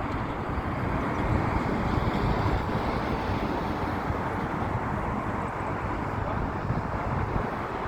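Steady, even rumbling noise of an Airbus airliner during landing.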